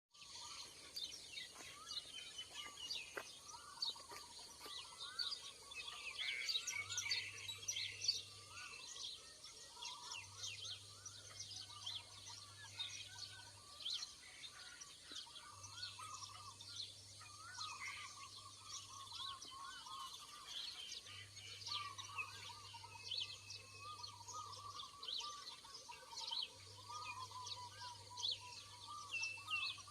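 A chorus of many birds chirping and calling: dense short high chirps over lower warbling calls, against a steady high hiss.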